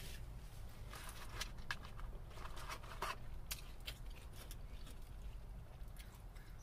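Close-miked chewing and mouth sounds: irregular small wet clicks and light crunches from eating salad. A steady low hum sits underneath.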